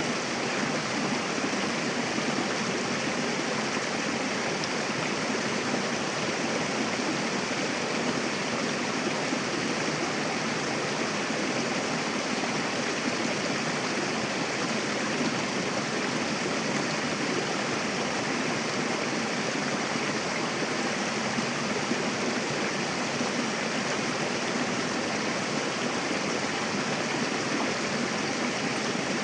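Mountain river flowing fast over rocks: a steady, dense rush of water.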